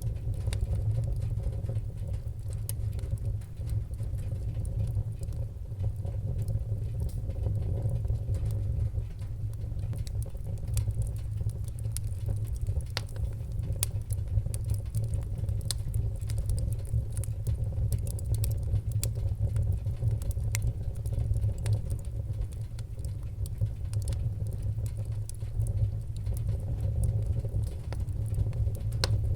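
Fireplace fire crackling: scattered sharp pops and snaps, irregular and frequent, over a steady low rumble.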